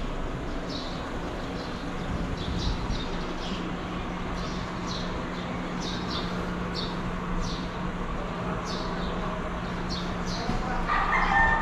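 Small birds chirping, short high falling notes about one or two a second, over a steady hum. Near the end a rooster starts to crow.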